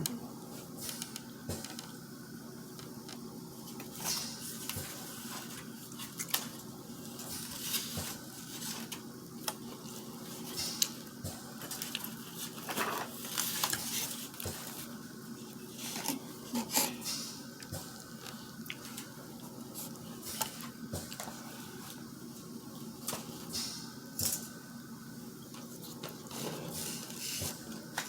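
Dishes and cutlery clinking and scraping, with scattered clicks and wet squishing, as a seafood boil in butter sauce is handled and eaten. A faint steady hum runs underneath.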